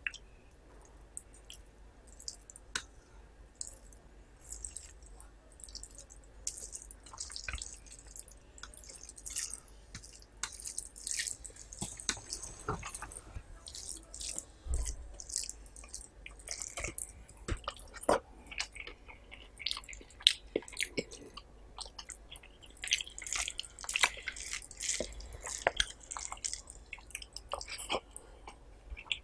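Close-up eating sounds of rice with curry: a steady run of short, wet clicks and smacks from mouth and food, uneven in pace throughout.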